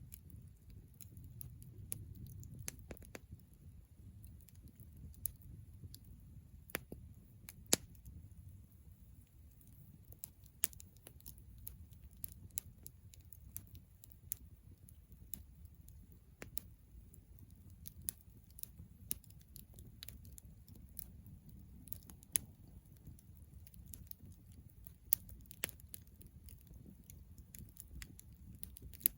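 Wood campfire burning, with irregular sharp pops and crackles over a low steady rumble.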